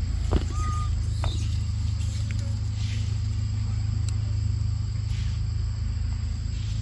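Steady low outdoor rumble under a thin, steady high-pitched whine, with a sharp click and a brief high squeak under a second in and another click soon after.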